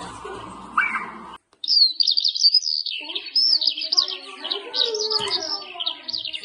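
Recorded birdsong: after a brief drop-out, a fast run of high chirps and trills begins about a second and a half in, and lower warbling notes join about halfway through.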